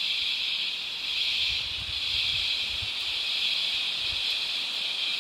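Rainforest insect chorus: a steady, high-pitched, unbroken drone that holds at the same level throughout.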